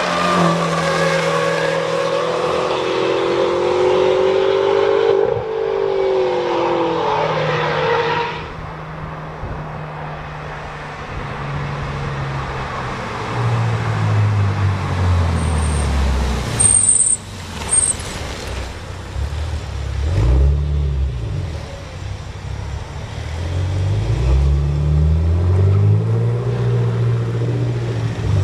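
BMW X5 M (F15) prototype's twin-turbo V8 running hard on a race track, its note sweeping in pitch as it passes. After a cut, the same engine at low revs in town, rising and falling several times as the SUV pulls away.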